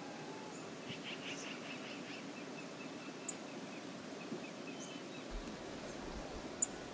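Steady rush of river water with small birds calling over it: a quick run of chirps about a second in, then a few single high chips.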